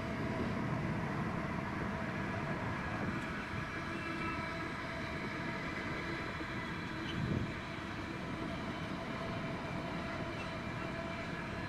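A Class 66 diesel locomotive and its freight train passing, with the engine running and the wagons rolling in a steady roar. There is a brief louder thud about seven seconds in.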